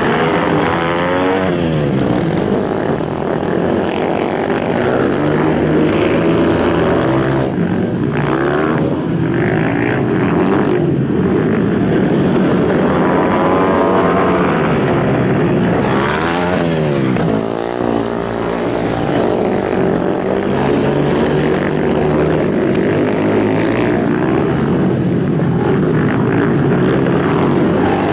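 Several racing motorcycles' engines running at high revs, overlapping, with the pitch falling as bikes sweep past, most clearly near the start and about halfway through.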